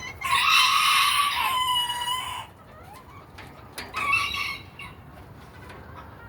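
Rooster crowing: one long crow that ends about two and a half seconds in, followed a second and a half later by a shorter call.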